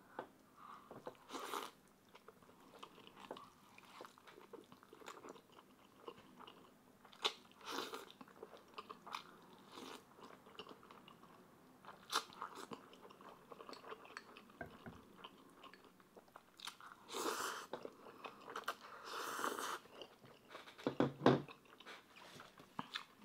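Close-up eating sounds: a person biting into and chewing a mouthful of Chapagetti black-bean noodles and fried egg, with wet mouth clicks and smacks, and a few longer, louder mouth noises near the end.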